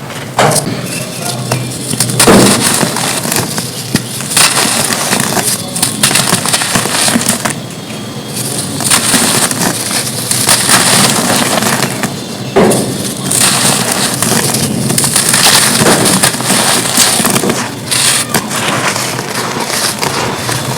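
Dry, dusty red dirt cones being crumbled and crushed: a continuous gritty crunching with frequent sharp cracks as pieces break apart.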